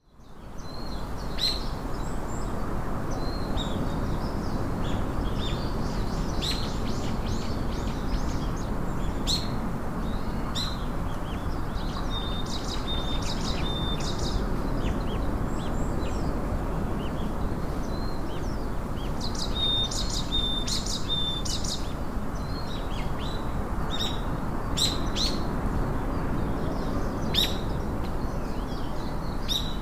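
Many small birds chirping and singing, with short repeated chirps and a few brief held whistles, over a steady low background rumble.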